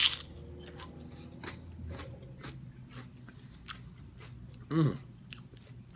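A potato chip bitten with one loud crunch at the start, then chewed with a string of fainter crunches. About five seconds in there is a short hummed voice sound.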